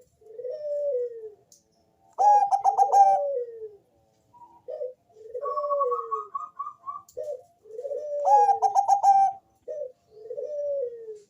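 Zebra dove (Bangkok-type perkutut) singing: soft descending coos, twice broken by a loud, rapid stuttering run of notes.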